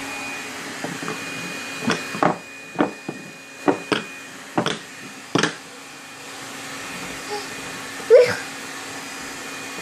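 A series of sharp clacks, about seven in a few seconds, like small rocks being knocked together or dropped, over a steady background hum. A short high squeaky call rises and falls near the end.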